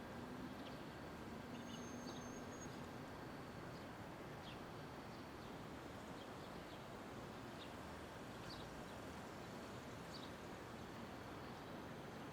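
Steady downtown street ambience, a constant hum of traffic and city noise, with faint short high chirps of small birds scattered through it.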